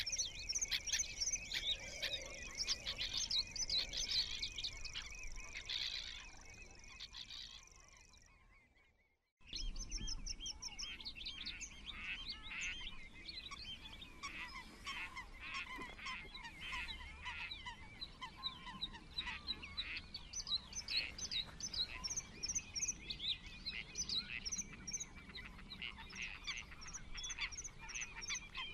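Many wild birds calling and chirping over one another, short high notes in a busy chorus. The sound fades out about six seconds in, drops to silence for about a second, then the calling resumes.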